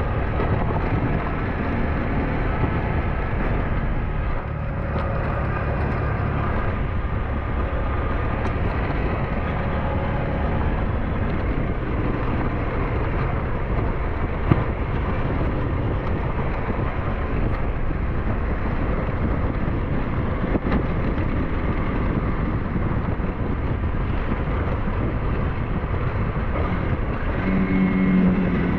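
SYM NH T 200 motorbike engine running steadily under way, with wind buffeting the microphone. A single sharp knock about halfway through.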